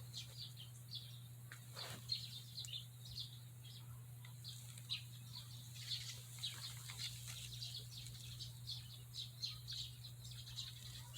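Small birds chirping faintly, many short high calls scattered irregularly, over a steady low hum.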